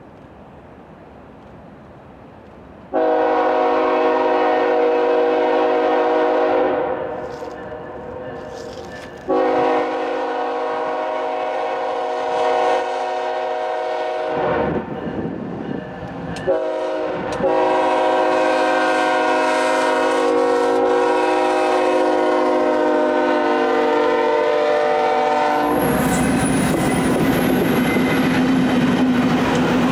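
Freight locomotive's multi-chime air horn sounding the grade-crossing signal: long, long, short, long, the last blast held longest. The train then passes close by with its wheels rumbling and clattering over the rails.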